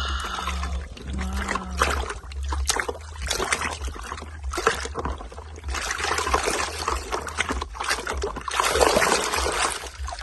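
Water trickling and splashing in irregular bursts over toy vehicles, as they are washed.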